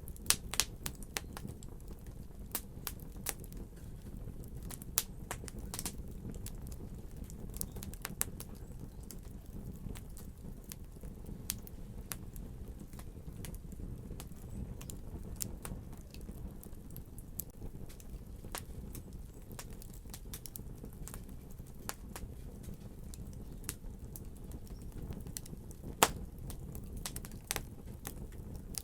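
Wood fire crackling: a steady low rumble of burning under irregular sharp pops and snaps, with one loud pop about three-quarters of the way through.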